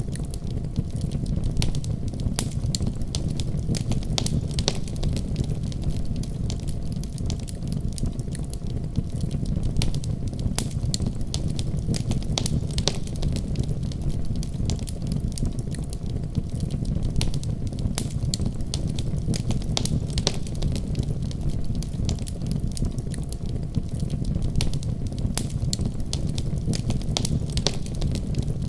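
Wood fire burning steadily, with a low rumble under frequent sharp, irregular crackles and pops.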